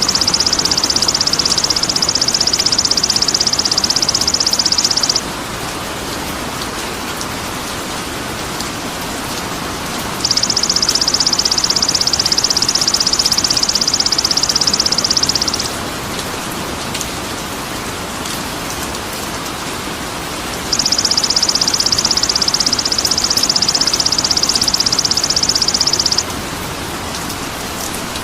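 A high, very rapid buzzing trill played as songbird-training (masteran) material, sounding three times for about five seconds each with five-second gaps, over a steady rain-like hiss.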